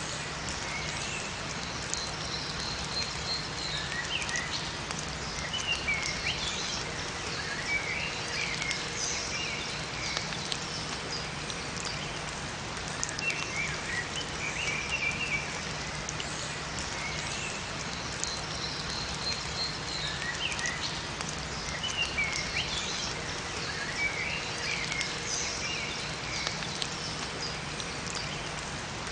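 Steady rain falling in a forest, with small songbirds giving clusters of short chirps over and over.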